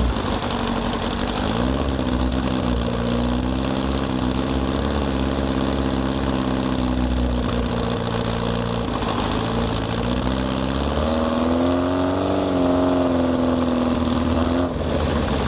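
Air-cooled Volkswagen flat-four engine pulling a car along, with steady wind and road noise. Its pitch rises about two seconds in and holds, breaks off about halfway through, climbs again and drops near the end.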